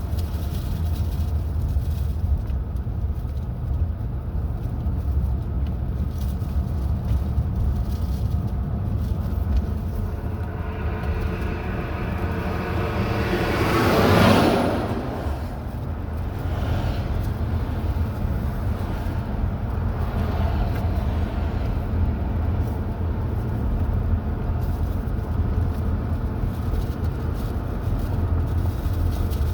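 Steady low rumble of a car driving on the road. About halfway through, another vehicle passes: its sound swells, peaks, drops in pitch as it goes by, then fades.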